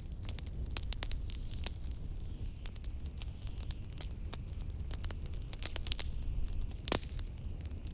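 Wood fire crackling with frequent sharp pops, one louder pop near the end, over a steady low rumble of blizzard wind.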